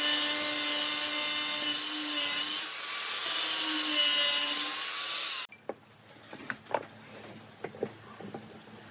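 Electric power tool working wood with a steady whine that wavers slightly in pitch, cutting off suddenly about five and a half seconds in; then scattered light knocks and scrapes of wood being handled.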